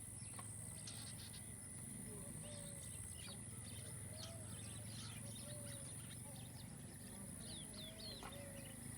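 Several birds chirping in a farmland ambience, with one lower call repeated about every second and a half, over a steady low hum and a steady high-pitched hiss.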